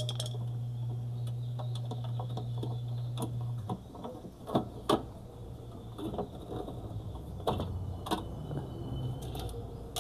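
Scattered metallic clicks and ticks of an 8 mm wrench undoing the screws of a washing machine's pulley cover, with a steady low hum that stops about four seconds in.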